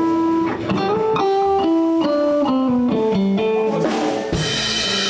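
Electric guitar playing a single-note blues lick: one held note, then a run of quick notes stepping down and back up. A cymbal crashes near the end.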